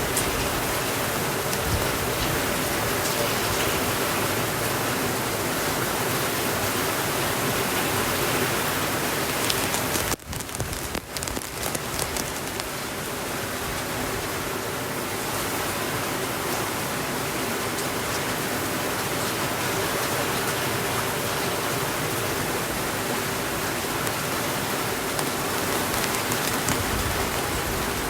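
Steady rain, a dense even hiss. About ten seconds in it drops out sharply for a moment, flutters for a second or two and comes back.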